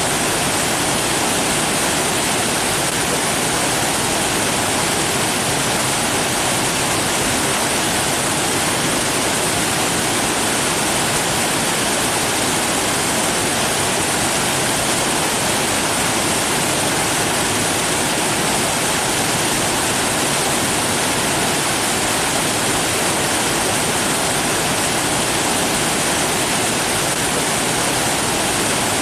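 Steady, unchanging rushing noise, like a waterfall, spread evenly from low to high with a bright hiss on top.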